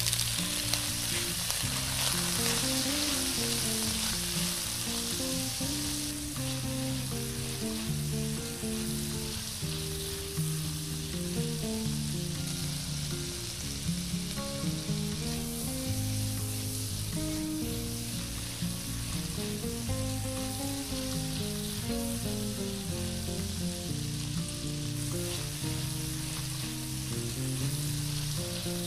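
Chopped chili and garlic paste sizzling in hot oil in a frying pan as it is sautéed on low heat and stirred with a wooden spatula. The sizzle is hardest for the first several seconds after the paste goes in, then settles to a steadier, slightly quieter sizzle.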